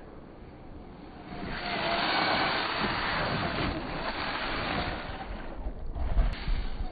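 Traxxas TRX-4 RC crawler running in snow: a faint wavering whine from its electric motor under a rushing noise that swells about a second and a half in and eases near the end.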